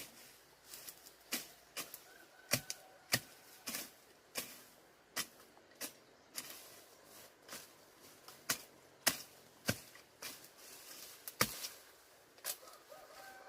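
Sharp, irregular knocks and taps, about one or two a second, from hand-tool work such as hammering or chopping.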